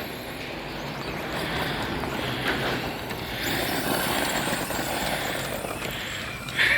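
Brushless electric 2WD RC short course trucks driving over grass, their motors and drivetrains whirring with tyre noise and swelling a little with the throttle.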